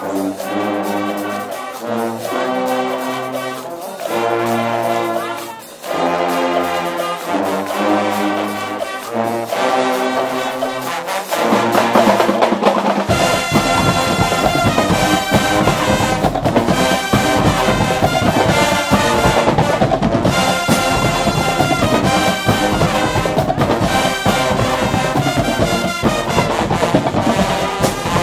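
Guggenmusik band playing: loud brass chords, held and changing every second or two, then about 13 s in the drums come in and the full band plays on with a steady beat.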